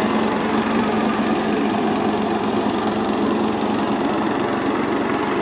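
Harbor Freight Predator 212cc single-cylinder four-stroke engine driving a homemade mini jet boat, running steadily with no change in speed.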